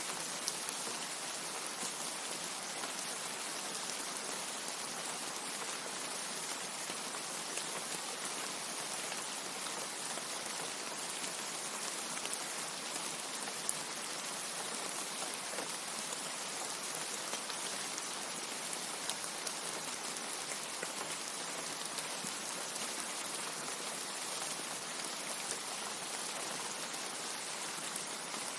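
Steady rain, an even hiss of falling water with the odd sharper drop tick standing out, and no thunder.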